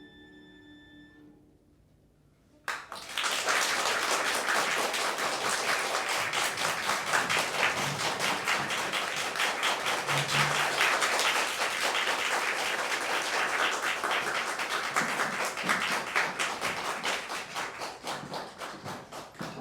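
The last held chord of a clarinet, oboe, violin, cello and piano quintet fades away, and after a moment's pause the audience breaks into steady applause that thins out near the end.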